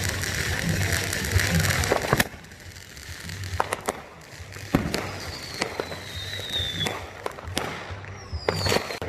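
Fireworks going off: a loud bang about two seconds in, then scattered sharp pops and cracks, with a whistle falling in pitch in the middle and a shorter falling whistle near the end.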